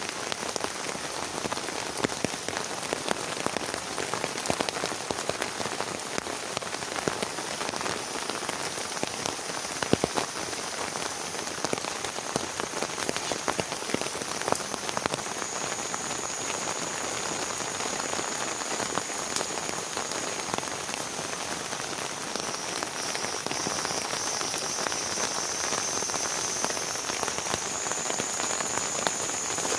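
Heavy rain falling steadily: a continuous hiss with many sharp, irregular drop hits on a nearby surface.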